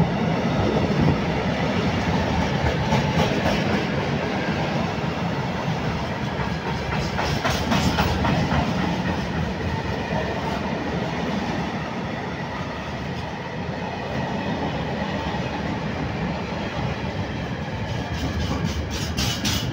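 A freight train of open-top wagons rolling past close by: a steady rumble of steel wheels on rail, with rhythmic clicking of wheelsets over rail joints, clearest about seven seconds in and again near the end.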